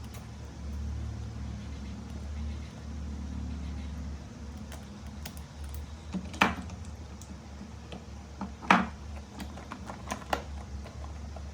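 A series of sharp clicks and taps, two of them much louder than the rest, over a steady low hum.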